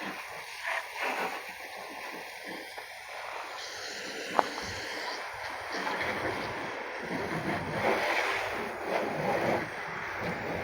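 Water splashing and spattering on a car as it is washed, getting a little louder partway through, with one sharp click about four seconds in.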